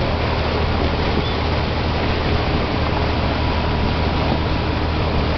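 Steady drone of a boat's engine with a strong low hum, mixed with a rush of wind and water.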